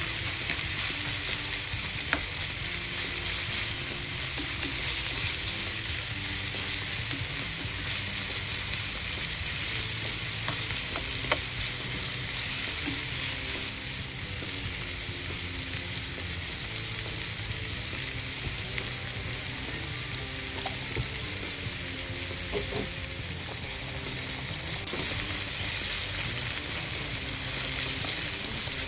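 Ground pork and chopped onion sizzling in a nonstick frying pan while being stirred and tossed with tongs, a steady frying hiss with a few light clicks.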